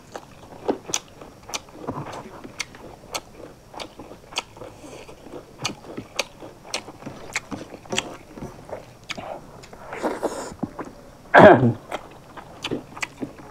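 Close-miked eating sounds: chewing and wet lip smacks from two people eating rice and curry by hand, with sharp mouth clicks about twice a second. A short voiced sound comes about eleven seconds in.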